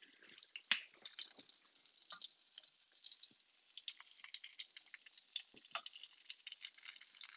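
Breaded chicken cutlets frying gently in oil and butter in a skillet: a soft, irregular crackle of small pops, with a few sharper clicks, the loudest about three quarters of a second in.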